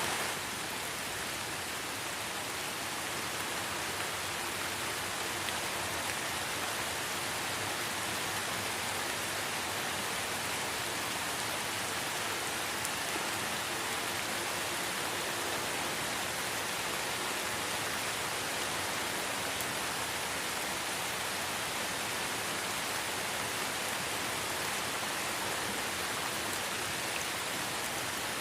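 Steady light rain falling in a forest, an even hiss of many drops with no single drop standing out.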